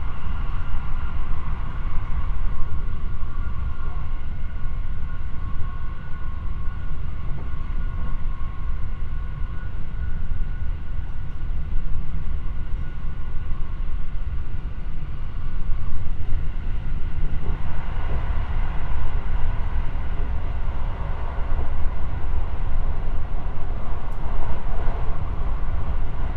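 Running noise of a JR West 223 series electric train heard from inside the passenger car: a steady rumble of wheels on rail. Thin steady whines fade out over the first third, and a brighter rushing sets in a little past halfway.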